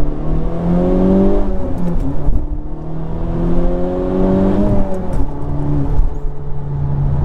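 2021 Honda Civic Type R's 2.0-litre turbocharged four-cylinder, with its resonator and muffler deleted, accelerating through the gears. The engine note rises, drops at an upshift about a second and a half in, rises again and drops at a second upshift near five seconds, then holds steady.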